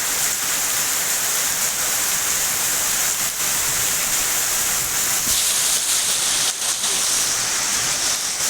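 Heavy rain pouring down steadily in a cloudburst, with hail falling along with it, making an even, unbroken hiss.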